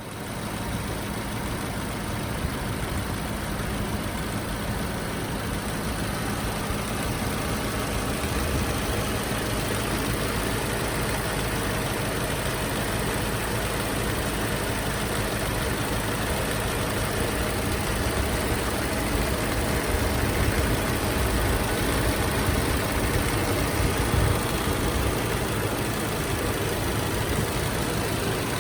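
Subaru WRX S4's turbocharged flat-four engine running steadily at low revs as the car drives, a low hum under an even, steady wash of noise.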